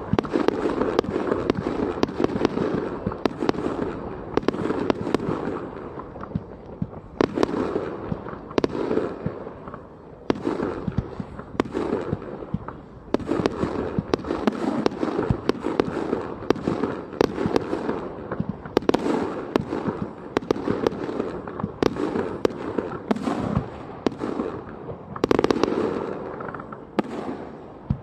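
Fireworks display: shell bursts going off in quick succession, low booms overlapping with many sharp cracks and crackling, easing off near the end.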